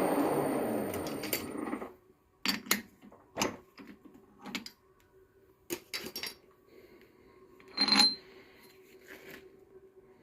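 A lathe running and winding down over the first two seconds, then small machined steel parts clinking and clattering against metal in a string of separate clinks, the loudest and most ringing one about eight seconds in, over a faint steady hum.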